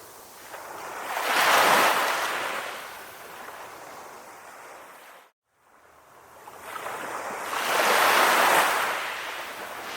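Calm sea waves washing in, two waves swelling and fading away. About halfway through, the sound cuts out completely for a moment, then returns.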